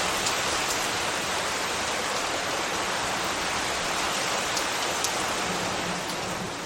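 Light rain falling steadily, an even hiss with a few separate drop ticks. It begins to fade out near the end.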